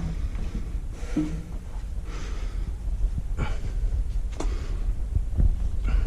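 A person breathing heavily close to the microphone, a breath about every second, over a steady low rumble, with a couple of sharp knocks in the second half.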